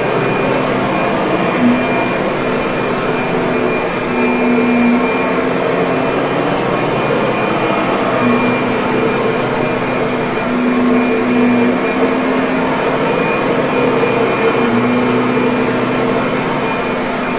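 Kirby upright vacuum cleaner running steadily: a continuous motor whine and airflow rush, its hum swelling and easing slightly every few seconds.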